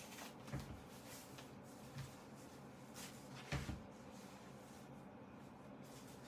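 Faint handling noises: a few soft knocks and rustles, a close pair of them about three and a half seconds in, over a steady low hum.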